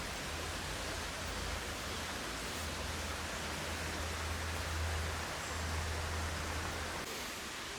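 Steady rushing noise with a low rumble that drops away about seven seconds in.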